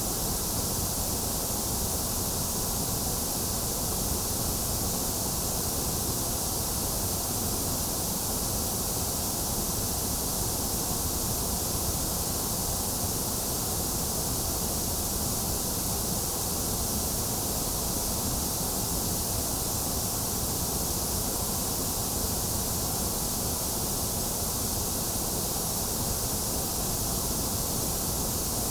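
Steady, unchanging electronic white noise: an even hiss with no rhythm, pitch or events.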